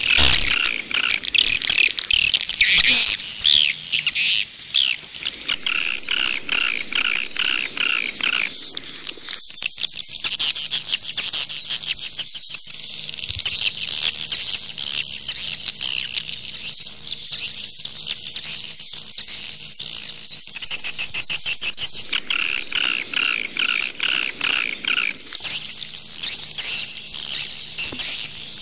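Swiftlet calls in the 'jaguar' style of swiftlet lure sound: a dense, unbroken twittering of rapid high chirps. This is the kind of recording played at swiftlet nest houses to draw the birds in.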